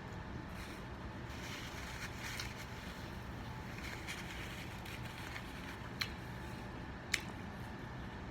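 A man chewing food with wet mouth sounds over a steady low room hum, with two sharp clicks about six and seven seconds in.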